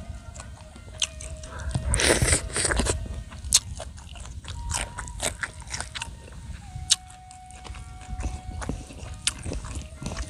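Close-miked eating of crunchy food: a run of crisp bites, crunches and wet mouth clicks, with a louder noisy burst about two seconds in.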